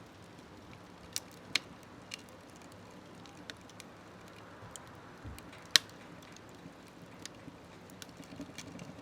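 Wood fire crackling in a smokeless wood stove: irregular sharp pops and snaps over a faint low hiss, with the loudest snap a little past halfway.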